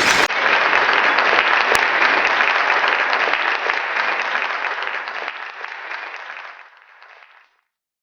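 Audience applause, a dense steady clapping that starts abruptly and then fades away over several seconds.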